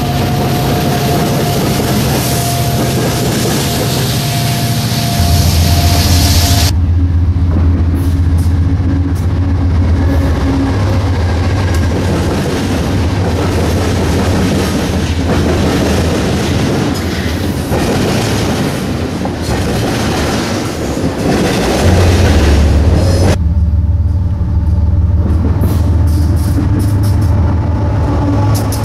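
Freight train rolling past, its wheels clattering on the rails over a steady low drone. The sound shifts abruptly twice, about a quarter of the way in and near the end.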